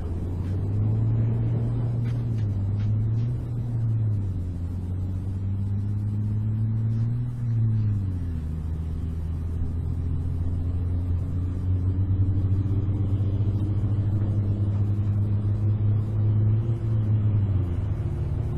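A low engine drone that holds steady, with its pitch dipping and shifting a few times, most noticeably near the end.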